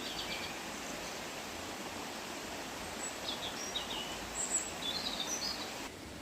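Steady outdoor background noise with small birds chirping: a few short, high chirps about halfway through and more near the end.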